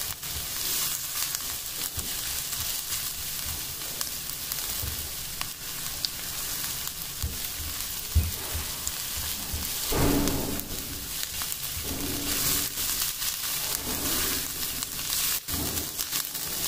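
Chopped onions with crushed garlic and ginger sizzling in oil in a non-stick frying pan, stirred with a silicone spatula that gives a few louder strokes in the second half. The garlic and ginger are being lightly fried to take away their raw taste.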